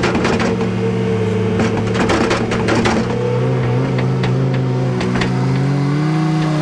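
Farm machine engine running steadily at a constant speed, its pitch shifting slightly, with scattered knocks and rattles from the machine over the first half and again about four to five seconds in.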